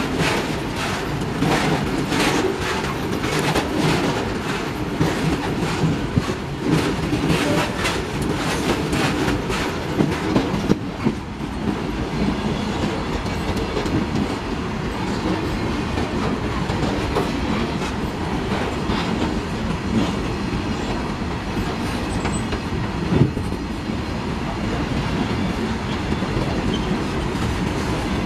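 A long freight train of covered boxcar wagons rolling past close by: a continuous rumble of steel wheels on rail, with a rapid rhythmic clickety-clack for roughly the first ten seconds, then a steadier rumble, and a single sharp clank later on.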